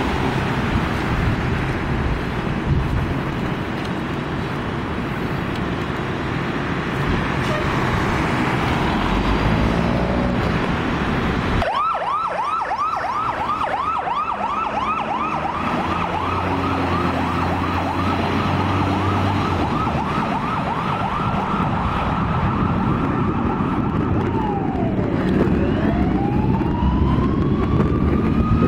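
Fire engine responding: a steady rumble of engine and road noise for the first dozen seconds, then its siren starts in a fast yelp, about two rising-falling sweeps a second, and near the end switches to a slow wail.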